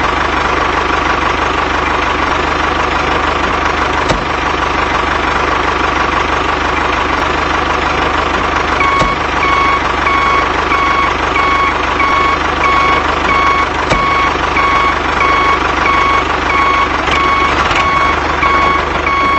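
Steady engine running sound, joined about halfway through by a reversing alarm beeping at an even pace, roughly once a second.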